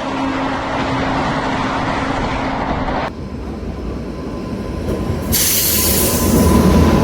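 A train passing at speed: wheel-and-rail rumble, with a low steady horn note trailing off over the first few seconds. There is an abrupt change near the middle, then a loud high hiss and rush of wheels on rails from about five seconds in.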